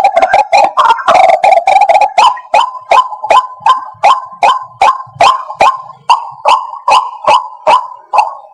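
White-breasted waterhen calling: a quick run of harsh, croaking notes gives way about two seconds in to a steady, repeated series of sharp 'kwak' notes, about two and a half a second.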